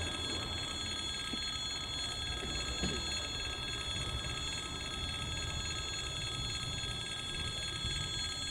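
Steady low rumble of a TEM2 shunting diesel locomotive and its coal train at a railway level crossing, under a continuous high-pitched ringing tone.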